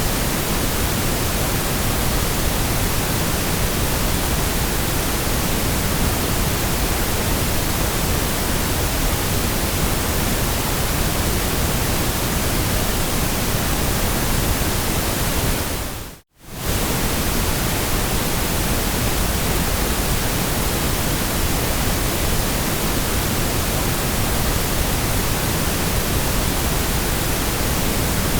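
Steady white noise: an even, unchanging hiss across the whole range, slightly fuller in the low end. About sixteen seconds in it briefly fades out to near silence and straight back in.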